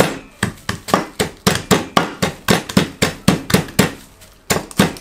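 Hot Cheetos in a bag being crushed by pounding them with a side plate on a wooden cutting board: rapid knocks, about four a second, with a short pause about four seconds in.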